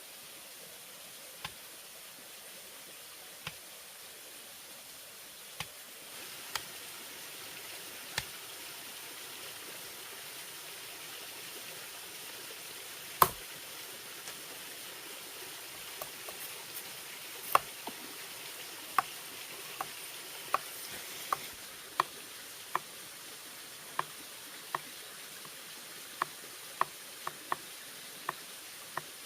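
Bamboo being worked by hand: single sharp knocks and taps, a few seconds apart at first, then about one a second in the second half, the loudest about 13 seconds in. A steady hiss of background runs under them.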